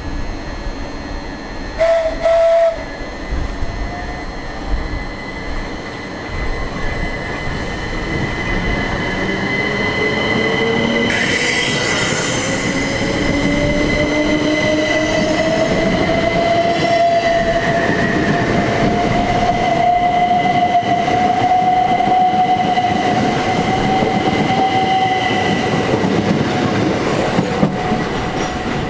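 Class 375 Electrostar electric multiple unit pulling away from the platform, its traction motor whine rising steadily in pitch as it gains speed. A short tone sounds about two seconds in.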